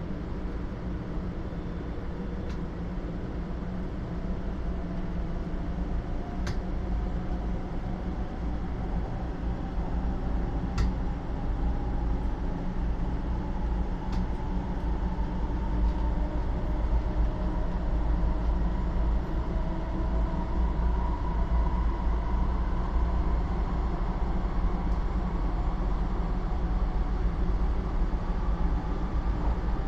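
Inside a 500 series Shinkansen car as the train accelerates away: a steady low running rumble with a faint motor whine slowly rising in pitch and the whole sound growing louder. There are a few light clicks in the first half.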